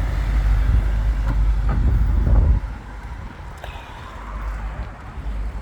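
Low rumble of riding a bicycle: wind on the microphone and road noise, loud for the first two and a half seconds, then dropping off suddenly to a quieter rumble.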